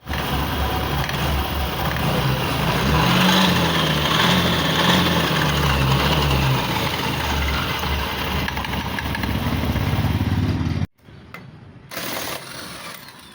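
Honda Activa BS6 scooter's single-cylinder four-stroke engine running and being revved up and down, with the gearbox noise the scooter has come in for. It cuts off suddenly about eleven seconds in.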